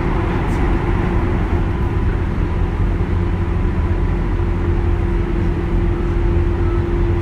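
Running noise of a 201 series electric train heard from inside the car at steady speed: a constant rumble of wheels on track, with a steady hum.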